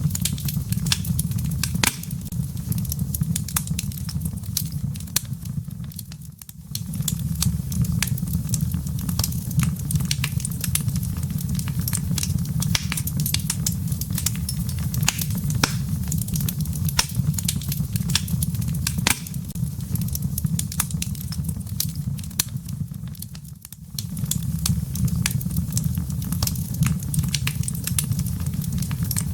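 Wood logs burning in a fireplace, crackling with frequent sharp pops over a steady low rumble of the fire. The rumble drops away briefly twice, about six seconds in and again near 24 seconds.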